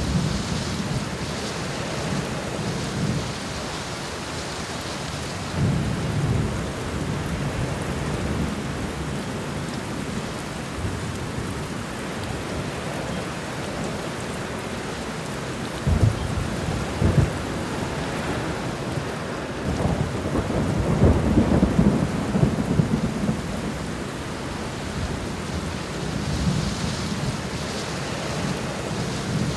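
Steady rain with repeated rumbles of thunder. A sharp thunderclap comes about halfway through, followed by the longest and loudest rolling rumble.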